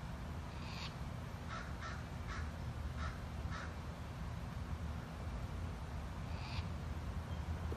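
A bird calling outdoors: a quick run of short calls in the first few seconds and one more near the end, over a steady low hum.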